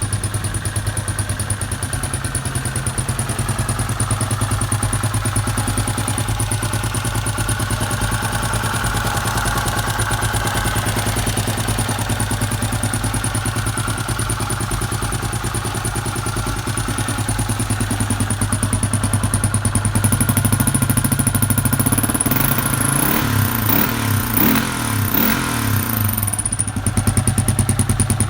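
1981 Honda XR500R's single-cylinder four-stroke engine running at a steady idle, revved up and down a few times about three-quarters of the way through.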